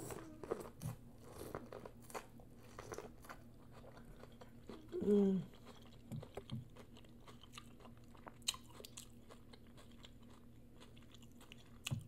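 Close-up biting and chewing of boiled corn on the cob: kernels crunching and popping in quick clicks, denser in the first few seconds and sparser later. About five seconds in comes one short, falling hum of the eater's voice, the loudest sound.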